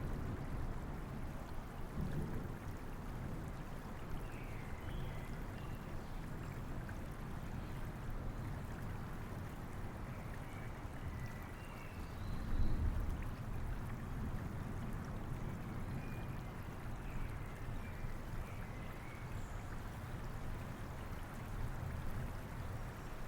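Steady rain with a flowing stream, a low rumble of distant thunder swelling about halfway through, and faint bird chirps now and then.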